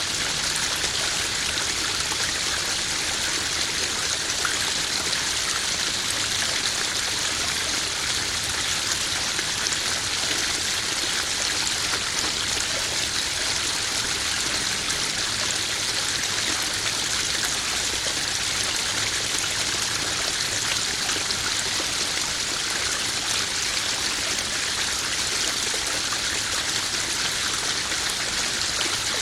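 Small garden waterfall spilling into a koi pond: a steady, even splashing and trickling of running water with no change.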